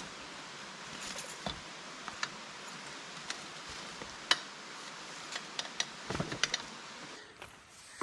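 A hiker walking on a rocky mountain trail: irregular clicks and taps of steps and rattling gear, the sharpest about four seconds in, over a steady hiss.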